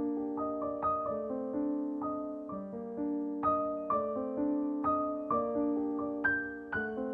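Background music: a gentle solo piano melody, notes struck about twice a second.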